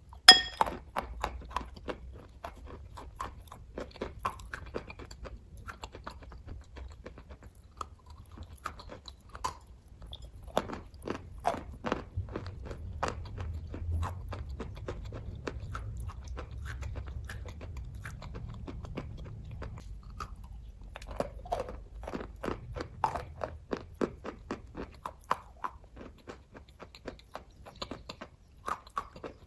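Close-up chewing and biting of kaju katli (cashew fudge), a steady run of small mouth clicks and smacks with a sharp click just after the start.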